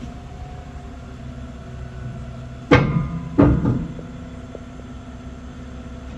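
Heavy diesel engine running steadily, with two loud metallic bangs about two-thirds of a second apart near the middle.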